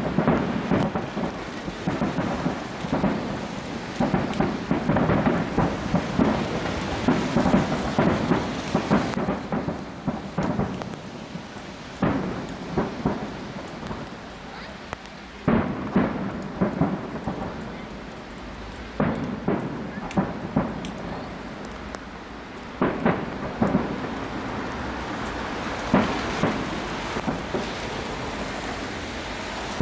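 Aerial fireworks shells bursting at a display. First a dense run of rapid booms and crackling for about ten seconds, then single loud bangs every few seconds.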